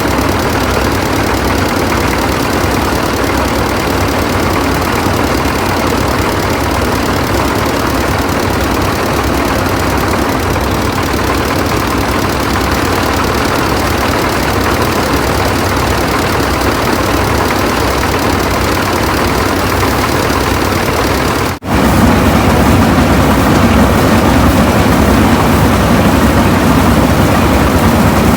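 An engine running steadily without letting up. About three-quarters of the way through it breaks off for an instant, then carries on a little louder and deeper.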